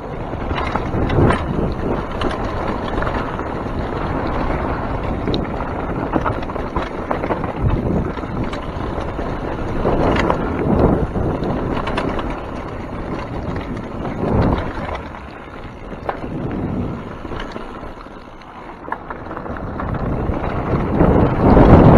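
Mountain bike riding down a wet trail: wind rushing over the microphone with tyre noise and quick clattering knocks from the bike over rough ground, rising and falling in level with a lull about eighteen seconds in.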